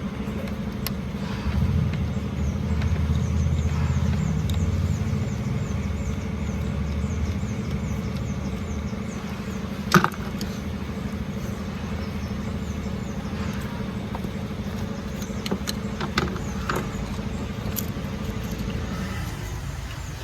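Volkswagen Polo GT engine running steadily, louder for a few seconds near the start, with a single sharp click about halfway through.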